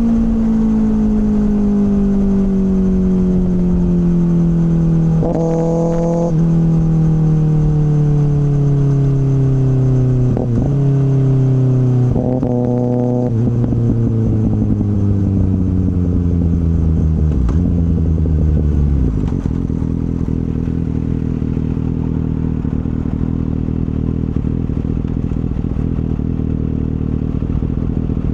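Kawasaki ZX-6R inline-four through an M4 slip-on exhaust, engine braking with falling revs and three downshifts that briefly jump the revs back up, then settling into a steady idle about two-thirds of the way through.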